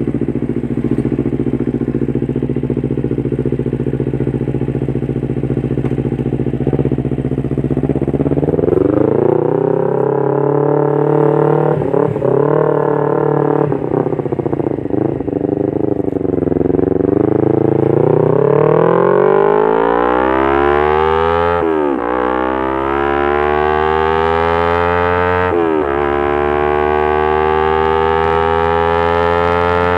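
Kawasaki Ninja 250 FI parallel-twin engine through a Pure Sound R9 H2 titanium exhaust, running steadily for several seconds, then revving up and down. In the second half it accelerates, the pitch climbing and dropping suddenly three times as it shifts up through the gears.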